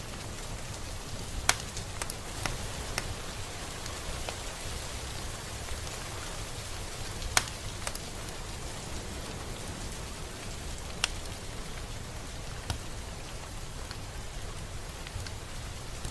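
Steady rain falling, an even hiss with a few sharp, louder drops striking close by here and there, the loudest near the start and about halfway through.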